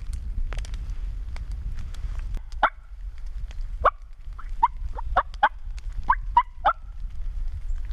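Turkey calling: a run of about nine short, sharp yelping notes, starting about two and a half seconds in, over a low wind rumble.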